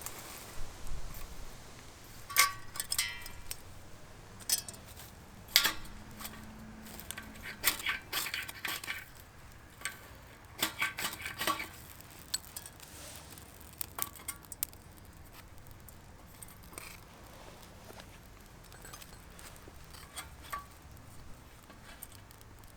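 Hard objects, metal among them, clinking and knocking as they are handled: irregular clusters of sharp clinks, some with a short ring, over the first dozen seconds, then only a few light ticks.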